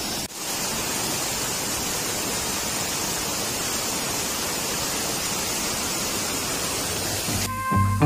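Waterfall rushing: a steady, dense wash of falling water. Music comes in near the end.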